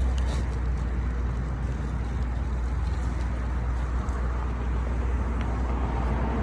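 Steady low background rumble outdoors, even throughout with no single event standing out.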